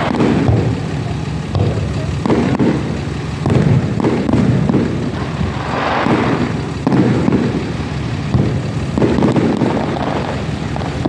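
Fireworks display going off: a string of bangs, one every second or so, with low rumbling between them.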